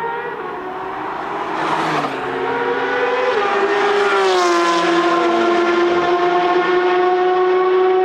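Porsche 992 GT3 RS's 4.0-litre naturally aspirated flat-six on a very loud aftermarket Brillsteel Edizioni Corsa exhaust, running hard at high revs and getting louder. Its pitch rises at first, drops twice about two and three and a half seconds in, then holds a steady high wail.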